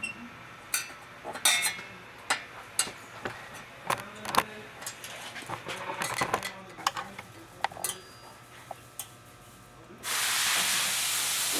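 Metal hand tools clinking and tapping on bolts and steel, in scattered sharp clicks. About ten seconds in, a steady loud hiss starts suddenly and keeps on.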